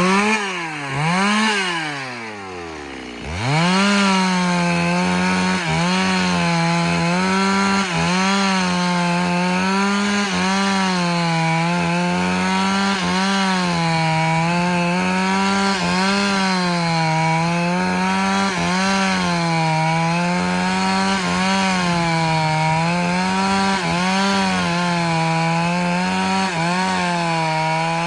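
Chainsaw revved up and down twice, easing off briefly, then held at full throttle under load, cutting steadily into a large log with its pitch wavering slightly as the chain bites.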